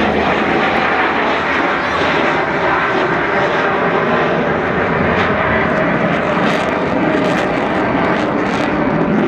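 Avro Vulcan XH558's four Rolls-Royce Olympus turbojets, a loud, steady jet engine noise from the bomber in flight.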